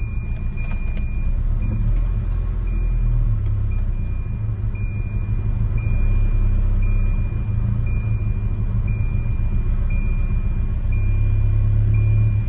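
Car engine idling roughly, with a low, uneven rumble. A thin high-pitched tone comes and goes about once a second.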